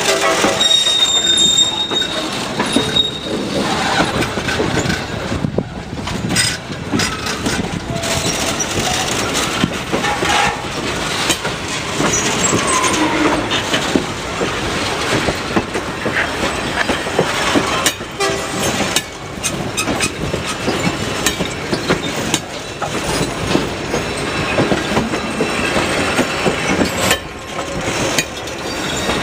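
A train rolling past, wheels clanking and clicking over the rail joints, with a thin high wheel squeal from about one to three seconds in.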